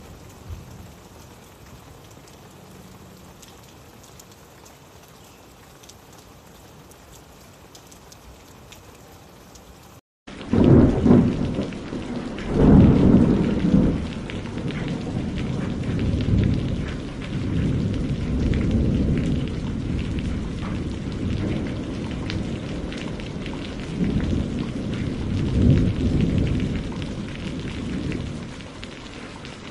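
Steady light rain, then after a short gap about ten seconds in, heavier rain with thunder rumbling in several long low swells.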